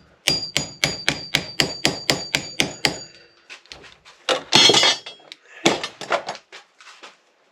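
Quick, even hammer taps on a bicycle spoke, about four a second for some three seconds, with a thin metallic ring over them, driving the ascender's plastic sleeve back into the rope. After that come a few scattered knocks and a brief rustle of handling.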